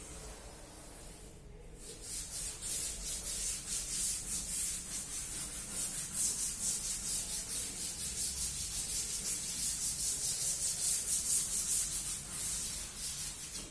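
Rapid back-and-forth shading strokes scratching on paper, darkening a drawing, starting after a short pause about two seconds in.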